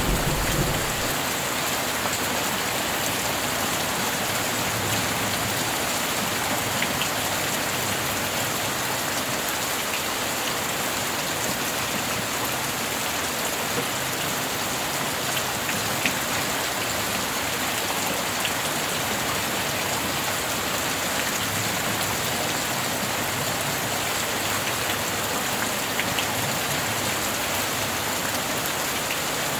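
Steady heavy rain falling, with the tail of a thunder rumble dying away about a second in.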